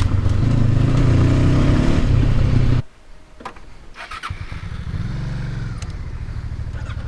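Honda CB500X's parallel-twin engine running steadily under load on a trail. It stops abruptly about three seconds in. After a few clicks, an engine is heard again, running more quietly.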